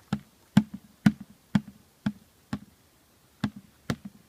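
A child beating a drum, the orange drum, with steady single strikes at about two a second, with a short pause a little before three seconds in.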